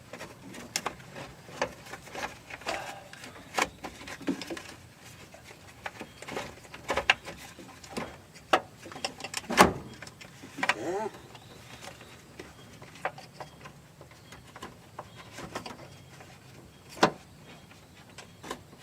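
Irregular knocks and clicks of the replacement fan motor assembly being worked into place, catching and scraping against the radiator. The loudest knock comes about halfway through, with another sharp one near the end.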